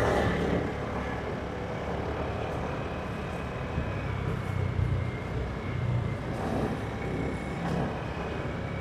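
Motorbike engine running steadily while riding on the road, a low drone with wind and road noise over it, swelling a little now and then.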